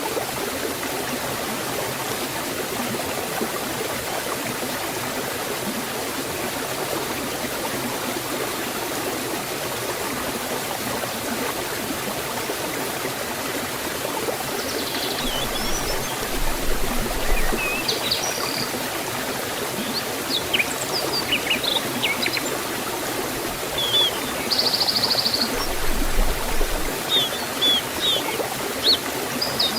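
Waterfall and stream water rushing steadily in a forest. From about halfway through, small birds chirp and sing over the water.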